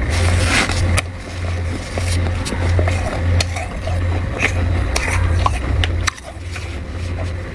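Crunchy humidifier frost being scraped by hand and crunched, with sharp crackling clicks at irregular intervals over a low hum that comes and goes.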